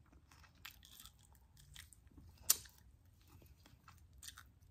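Faint chewing and biting on fried chicken wings: small wet mouth clicks and crunches, with one sharper crunch about two and a half seconds in.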